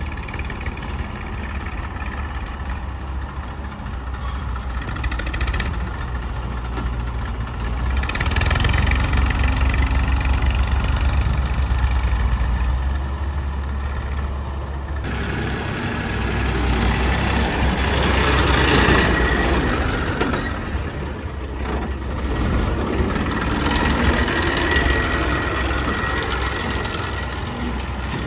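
Diesel engines of a tractor and backhoe loader running steadily, growing louder twice for several seconds at a time as the machines work.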